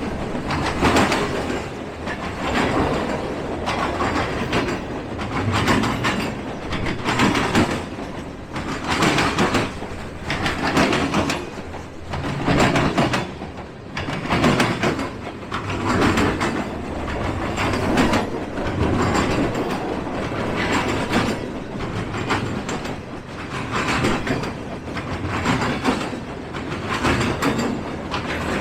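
Freight train cars rolling past, their wheels clattering over the rail joints in a steady rhythm of about one clatter a second.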